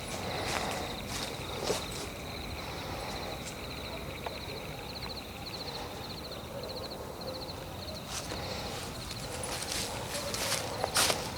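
Footsteps crunching on leaf litter and twigs of a forest floor, stopping for several seconds while a steady high chirping of night insects pulses a few times a second. The steps start again about eight seconds in, closer and louder toward the end.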